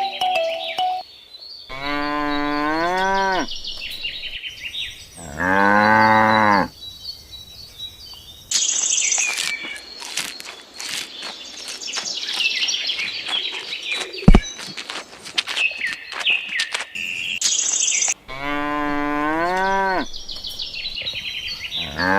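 Cows mooing four times, long drawn-out calls, with birds chirping between them. In the middle comes a busy stretch of high chirps and clicks, with one sharp, loud click about two-thirds of the way through.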